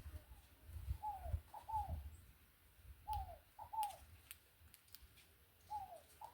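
A dove cooing: a short phrase of three falling coos, repeated three times about every two and a half seconds.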